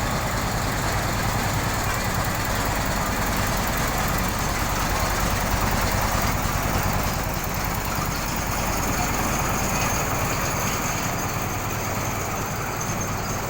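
A train's diesel engine running steadily, a low even rumble with a fast regular beat under a wide hiss.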